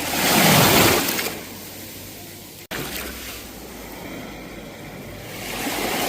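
Sea waves breaking and washing up the shore. One surge of surf peaks about half a second in and dies back to a steady hiss, and the next builds near the end. There is a momentary gap in the sound near the middle.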